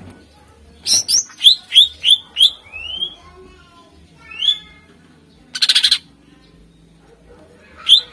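Green leafbird (cucak ijo) singing: runs of quick, loud, rising-and-falling whistled notes, broken about two-thirds in by a short harsh buzzy rattle.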